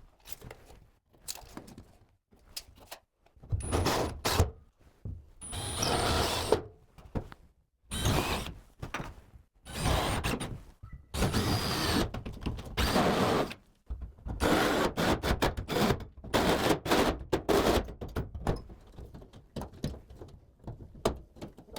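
Downlight holes being cut into the plasterboard ceiling: a run of short, harsh cutting and scraping bursts, each half a second to a second and a half long, broken by brief pauses and knocks.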